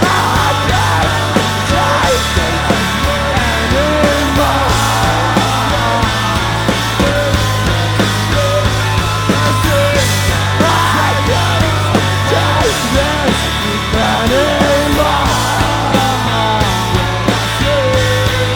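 Live rock band playing an instrumental passage: drums, bass and electric guitars, with a melodic lead line bending between notes over held bass notes.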